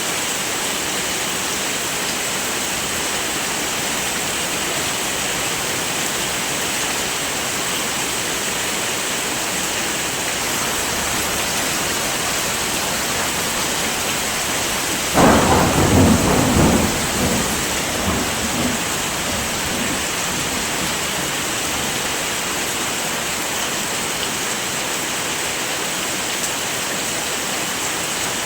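Heavy rain falling steadily. Just past halfway, a sudden thunderclap rumbles for a few seconds and fades back into the rain.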